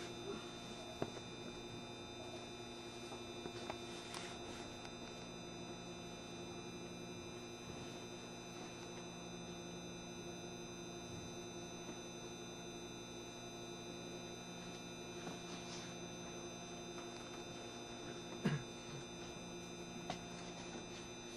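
JR Shikoku 7200 series electric train standing in the station, its onboard equipment giving a steady hum of several fixed tones inside the car. A few short clicks and knocks come through, the loudest about eighteen seconds in.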